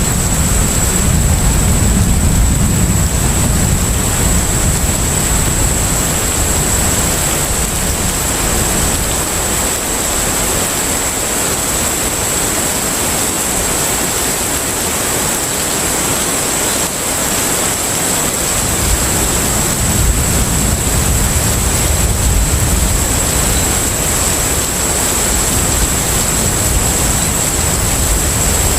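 Container ship at sea: a steady rushing wash of sea and wind over a deep engine rumble, which fades for several seconds in the middle and then comes back. A thin, high, steady whine holds above it throughout.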